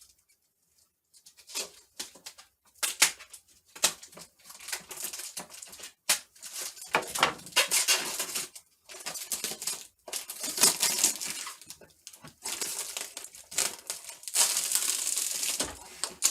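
Adhesive plastic protective film being peeled off a new robot vacuum and crumpled, with uneven crinkling and tearing and sharp crackles. It starts about a second and a half in.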